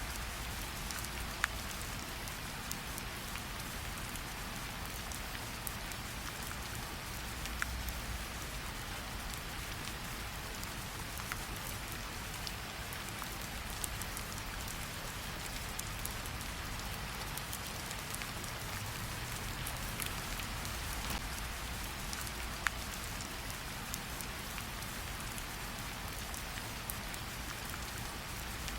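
Steady rain falling, an even hiss, with a low rumble underneath and a few isolated sharp pops from a crackling wood fire.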